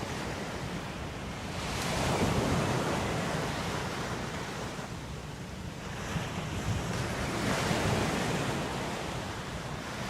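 Ocean waves washing onto a shore, a steady rush of surf that swells with a wave about two seconds in and another near eight seconds.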